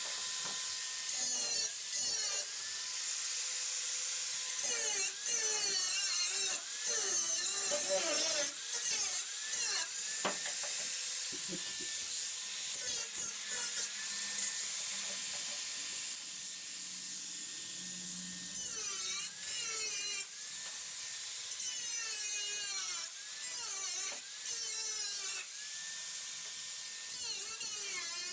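A power tool working on a bus's steel body panel, its high whine wavering and squealing as it bites into the metal, stopping and starting again and again.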